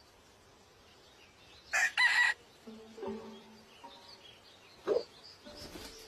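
A chicken calling: one loud, high, two-part call about two seconds in, then a shorter, lower call near the end.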